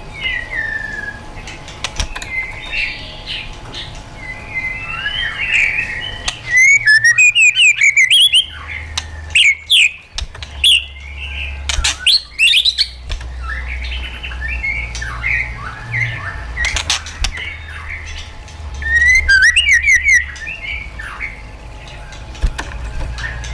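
White-rumped shama singing a varied song of whistled phrases, broken three times by loud bursts of rapid repeated notes.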